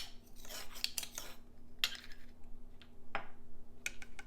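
A spoon scraping and clinking lightly against small dishes as yeast is measured into a bowl: some soft scraping at first, then a few separate clicks.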